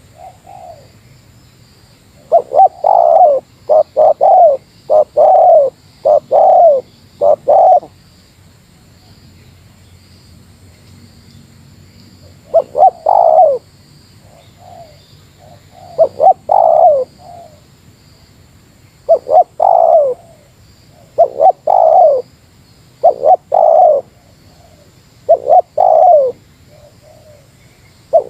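Spotted dove (tekukur) cooing in the "meratus" challenge style, the call given against a rival bird. It starts with a quick run of about six coos, pauses for a few seconds, then gives coo phrases again every couple of seconds. A faint steady high hiss sits underneath.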